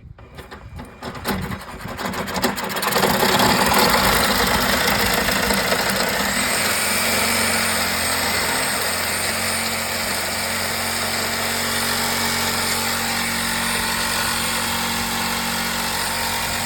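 A power saw cutting through the rusted, seized lower stud of a car's front sway bar link. The stud spins instead of unbolting, so it has to be cut off. The saw builds up over the first few seconds and then runs steadily under load.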